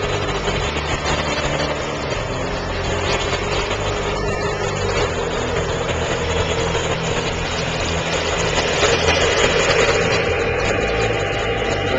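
Lionel O-gauge model train running on FasTrack: a steady engine rumble from the locomotive's sound system over the rolling noise of the train on the track, a little louder from about nine seconds in.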